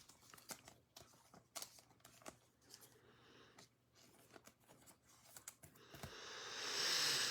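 Trading cards being handled: faint scattered clicks as cards are flipped, then a card sliding against another that swells into a hiss for about a second and a half near the end.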